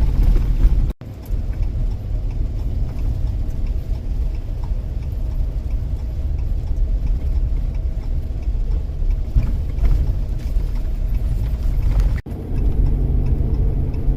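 Low steady rumble of a vehicle driving while towing an RV. The sound breaks off sharply twice, about a second in and near the end, and after the second break it becomes a steadier hum.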